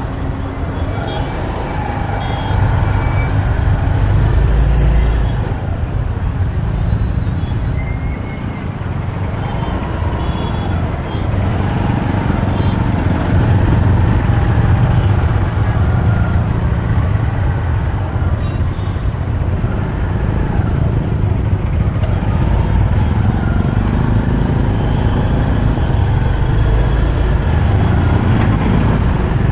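Road traffic heard from a moving motorbike: engines running steadily in city traffic, with a heavy, continuous low rumble.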